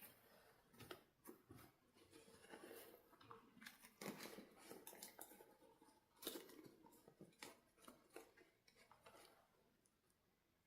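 Faint, irregular clicks and rustles of hands handling doll toys and their plastic packaging, dying away near the end.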